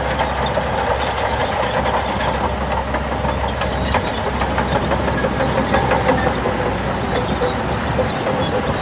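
Heavy diesel earthmoving machinery running steadily, with scattered metallic clanks and knocks throughout. A low hum drops away near the end.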